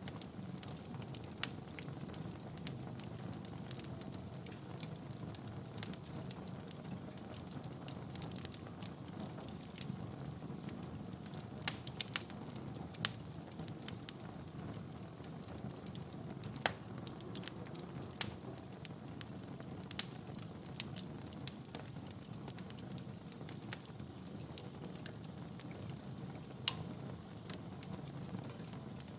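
Wood fire burning in a fireplace: a steady low rush of flames with irregular sharp crackles and pops, a quick cluster of them about twelve seconds in.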